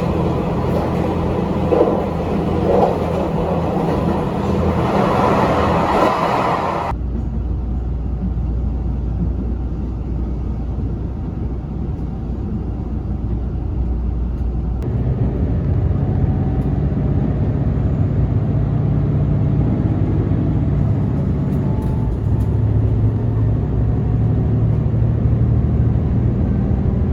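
Steady low rumble of a moving vehicle, changing abruptly in character about a quarter of the way in and again near the middle.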